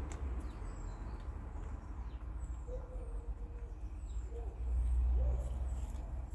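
Small birds chirping in short, high falling notes over a fluctuating low rumble, which swells for about a second around five seconds in.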